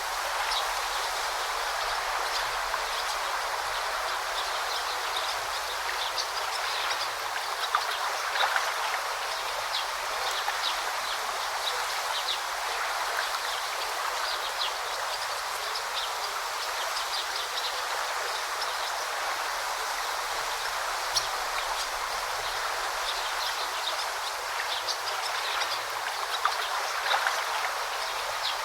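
River babbling and splashing steadily over a shallow bed, with many small sharp splashes.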